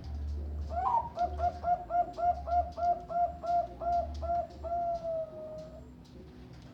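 Perkutut Bangkok (zebra dove) cooing: a quick, even string of about a dozen short coos followed by one long drawn-out final note.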